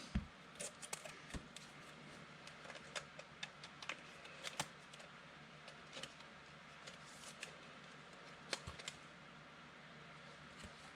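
Faint handling of trading cards: scattered light clicks and ticks of cards and card holders being shuffled and set down, with a soft thump just after the start and another near the end.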